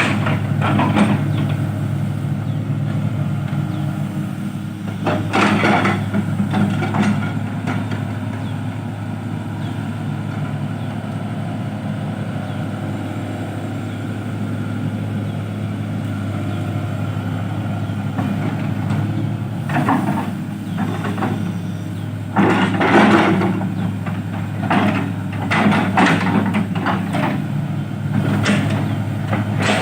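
Dump truck's diesel engine running steadily with a low hum, broken by a few short, louder bursts of noise: one right at the start, one about five seconds in, and several in the last third.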